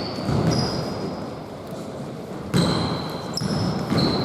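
Basketball bouncing on an indoor court with a few dull thuds, mixed with short high-pitched squeaks of sneakers on the court floor.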